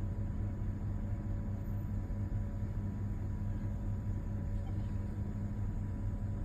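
A vehicle engine idling, a steady low rumble that does not change.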